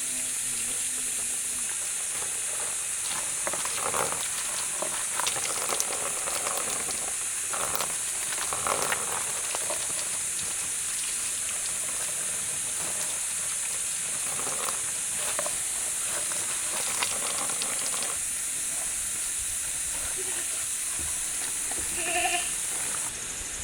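A steady high hiss with scattered knocks and clatter over it, and a short animal call about 22 seconds in. The hiss stops suddenly near the end.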